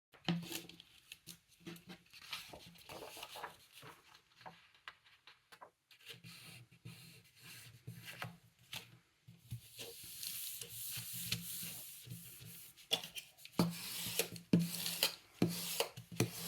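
Glue stick rubbing back and forth across paper in irregular strokes, getting faster and scratchier in the second half.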